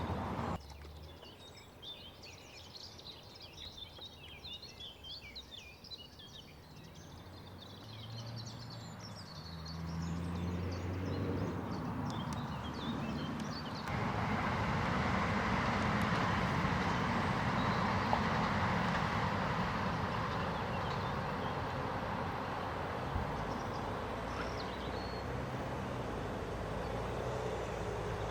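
Small birds singing for the first several seconds, then a low engine hum builds and, about halfway through, a louder steady rushing noise of a passing vehicle takes over and holds.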